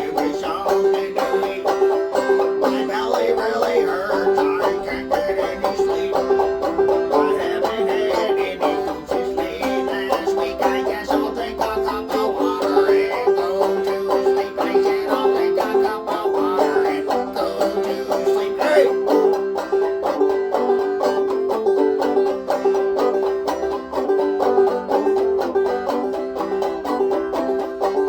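Instrumental break of a bluegrass-style song: fast picked banjo over a steady held note, with other plucked strings.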